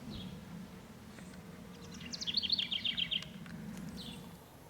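A songbird sings a quick run of rapidly repeated high notes lasting about a second, starting about two seconds in, over a low steady buzz of honey bees at the hive entrance, one fanning hard to ventilate. The buzz fades out near the end.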